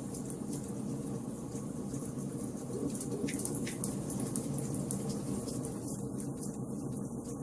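Wood fire burning in a fireplace: a steady low rumble of flames with frequent small crackling snaps.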